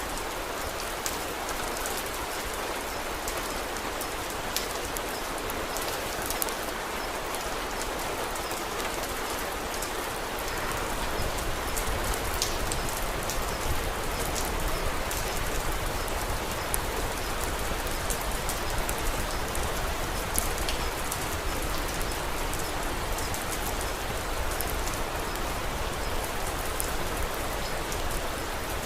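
Steady rain falling, with scattered small sharp crackles and ticks from a wood fire in a fireplace. The rain gets a little louder about ten seconds in.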